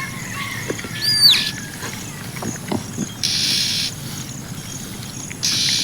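A bird's loud whistled call about a second in, rising then dropping sharply, followed by two short harsh hissing bursts near the middle and near the end, over steady outdoor background noise.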